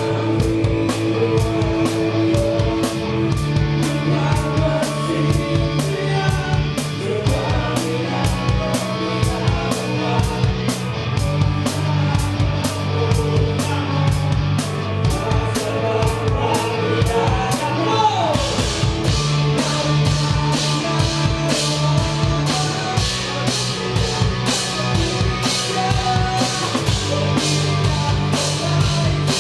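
Live rock band playing a song: drum kit beating steadily under bass and electric guitar, with singing. The cymbals grow busier and brighter about two-thirds of the way through.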